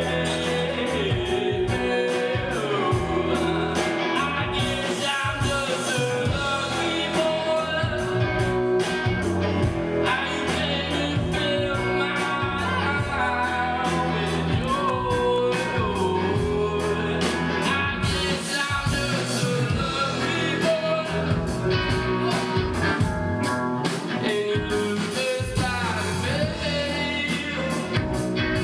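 Rock song played by a band with a lead singer: electric guitar, bass and drums keeping a steady beat under the sung melody.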